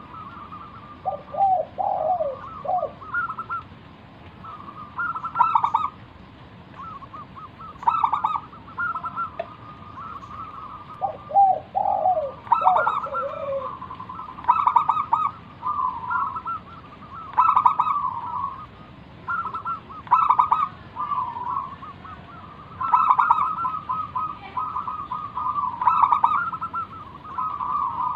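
Zebra dove (perkutut) singing its stuttering, trilled coo over and over, each phrase a couple of seconds apart. Twice, a lower, falling call comes in among the phrases.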